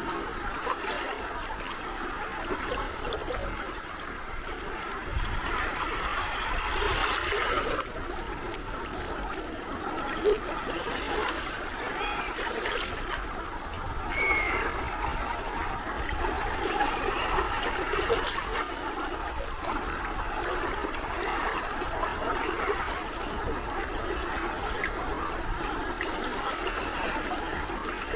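Gentle sea waves lapping and trickling at the shoreline: a steady, unbroken wash of water.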